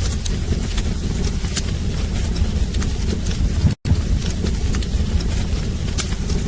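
Wood fire burning in a fireplace: a steady low rumble of flames with frequent irregular crackles and pops from the burning logs. The sound cuts out for an instant a little past halfway, then carries on.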